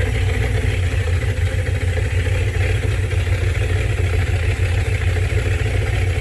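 Car engine running steadily on a cold start after sitting for two months, with its air cleaner off so the intake has a howling sound, echoing inside a building.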